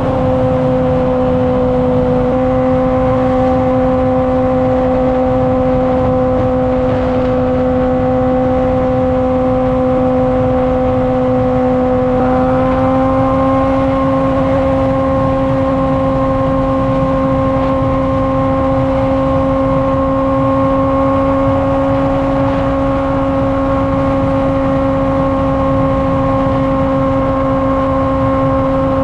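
Honda CBR600RR's inline-four engine through a Toce aftermarket exhaust, holding a steady note at cruising speed. Its pitch steps up slightly about twelve seconds in, over a constant rush of wind noise.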